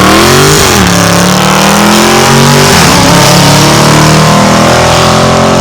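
2019 Dodge Charger Scat Pack's 6.4-litre 392 HEMI V8, running loud through an exhaust with the mid mufflers and resonators deleted, accelerating under load. Its pitch climbs, drops twice as it shifts up, and otherwise holds steady.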